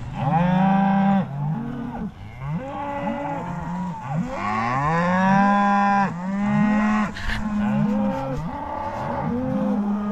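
A herd of beef cattle mooing, many cows calling over one another with hardly a break.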